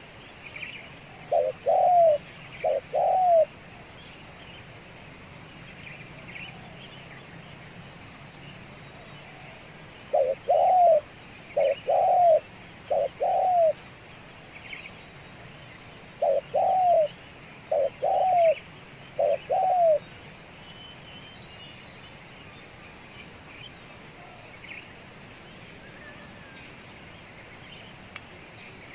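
Spotted dove cooing in three phrases: two coos near the start, then about four coos each around ten and sixteen seconds in. A steady high-pitched drone and faint chirps of small birds run underneath.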